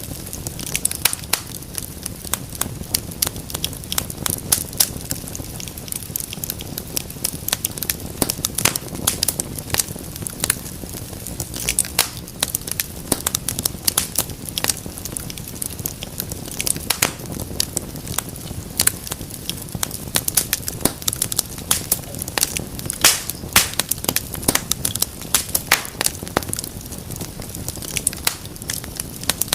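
Wood fire in a fireplace burning steadily, with a dense, irregular crackle of sharp pops and snaps over a low, steady rumble.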